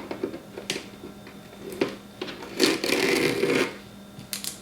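Things being handled: a few sharp clicks and knocks, and about a second of rustling clatter in the middle, over a faint steady hum.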